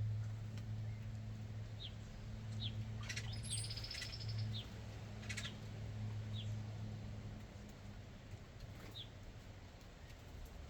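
Small birds giving short high chirps here and there, with a brief rapid trill about three and a half seconds in. Underneath runs a low steady hum that fades away in the second half.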